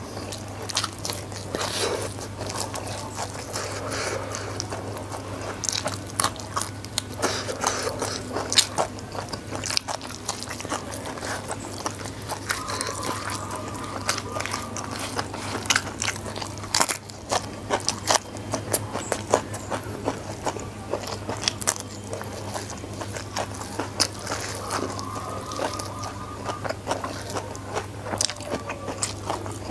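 Close-miked chewing and crunching as rice, corn fritter and raw greens are eaten by hand, with a dense run of small wet mouth clicks and crackles.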